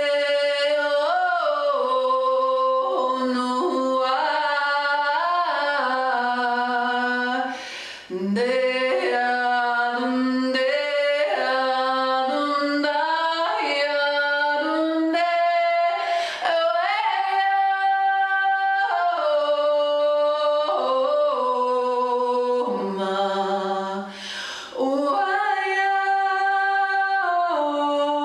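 A woman singing wordless, sustained vowel tones in an improvised toning line, holding long notes and stepping between them, with short pauses for breath three times.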